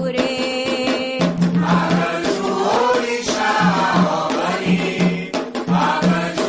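Afro-Brazilian Candomblé chant for the orixá Xangô: voices singing together over a steady beat of hand drums.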